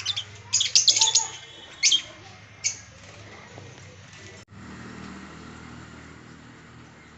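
Pet birds calling: a quick run of loud, shrill chirps about half a second to a second and a quarter in, then two more single calls roughly a second apart. After a brief break midway, the calls stop.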